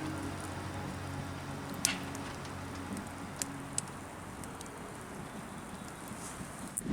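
Wood stove fire crackling under a steady hiss, with a few sharp, scattered pops.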